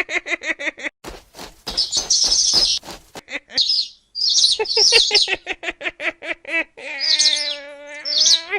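Cartoon bird chirps and tweets in short repeated bursts, over quick clicking ticks. A longer wavering pitched call comes near the end.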